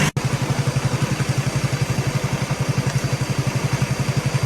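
A small engine idling with a rapid, even low throb.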